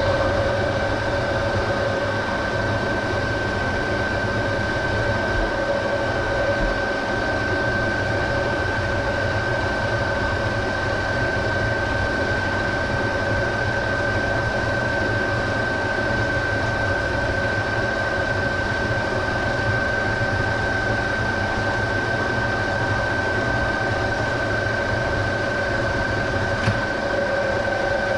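Metal lathe running steadily at 90 RPM during a thread-cutting pass on a copper pipe, its motor and gearing giving an even hum with a constant whine. A single sharp click sounds near the end.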